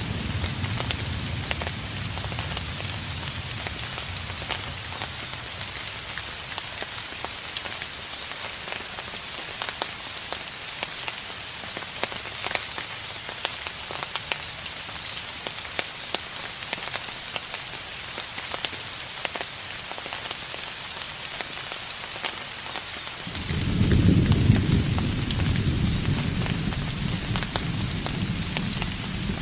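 Steady rain falling, with many fine drop ticks, and distant thunder: a low rumble dies away over the first few seconds, then a new roll of thunder starts suddenly near the end, loudest at first and rumbling on.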